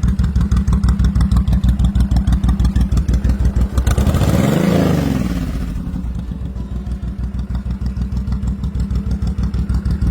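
Honda VTX 1800's fuel-injected V-twin, exhaust through Jardine tips on the stock pipes, idling with an even, rapid pulse. About four seconds in it is revved once, the note rising and falling back, then it settles back to idle.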